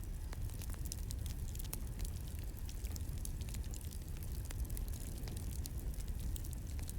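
Campfire crackling: a steady low rush of burning wood with frequent small, irregular pops and snaps.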